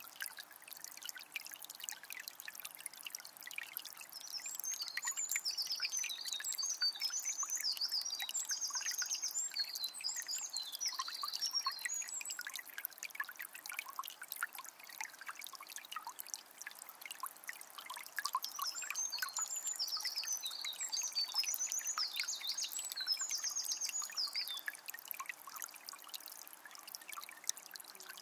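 A forest river flowing and trickling, with many small splashes. A songbird sings two long, varied songs over it, one in the first half and one in the second.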